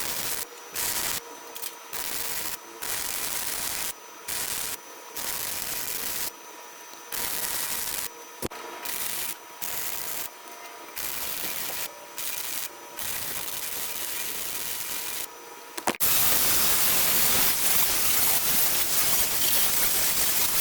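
Harbor Freight welder's arc crackling in about a dozen short bursts with brief pauses between them, as hinges are welded to a steel shelf, over a faint steady hum. From about sixteen seconds in, a louder, unbroken hiss takes over.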